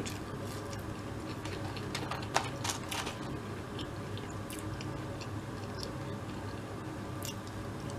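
A person chewing French fries, with faint, scattered mouth clicks over a low, steady hum.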